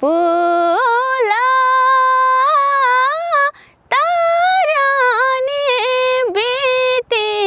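A woman's voice singing a line of a Nepali song in long, drawn-out notes with melodic turns, with a short break about halfway.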